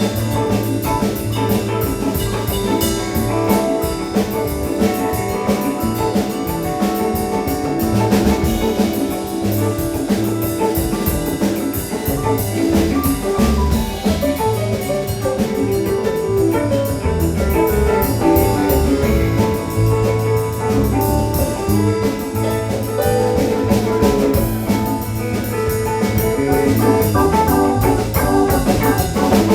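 A live rock band playing an instrumental jam on drum kit, bass and electric guitar, steady and loud throughout.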